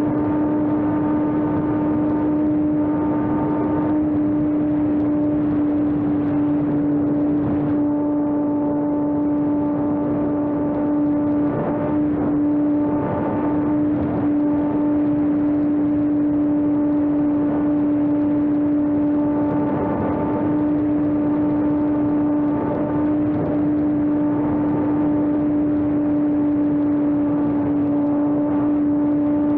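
Homemade electric RC airplane's 2212 1000KV brushless motor spinning a 5030 propeller at a steady throttle: a constant whine that holds one pitch throughout.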